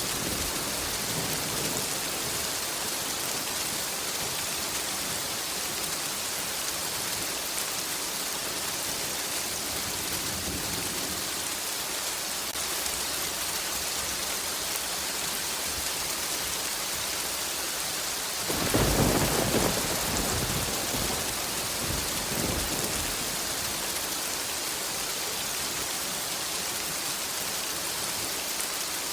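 Steady rain with a rumble of thunder about two-thirds of the way through, followed a few seconds later by a fainter second rumble.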